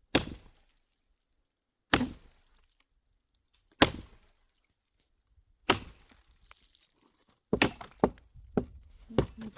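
Firewood being chopped: single sharp strikes about every two seconds, then quicker strikes near the end.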